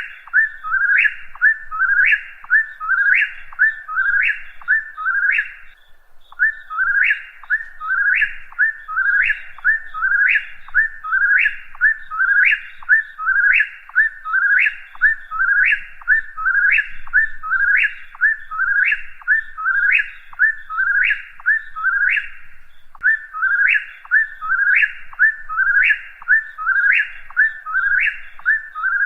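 Whip-poor-will singing its whistled 'whip-poor-will' phrase over and over, about one and a half phrases a second. The song breaks off briefly about six seconds in and again about twenty-two seconds in.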